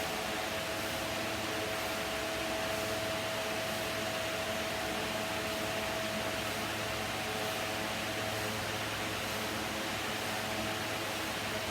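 Electric fan running steadily: an even whooshing hiss with a steady hum.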